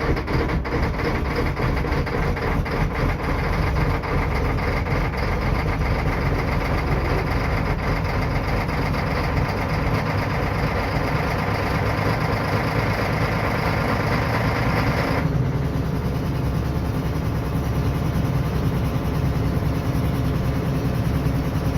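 Vehicle engine idling steadily just after a cold start. About fifteen seconds in, the higher part of the sound drops away suddenly while the low running goes on.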